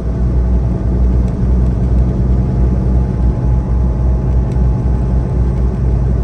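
Semi-truck running down the highway at a steady speed: a constant low engine drone with road rumble.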